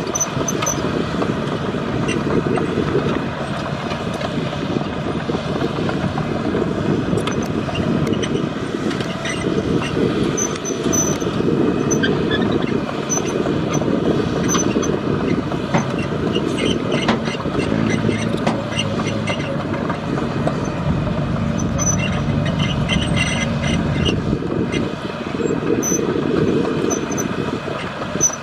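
Diesel engine of heavy road-construction equipment running steadily under load, with a few knocks.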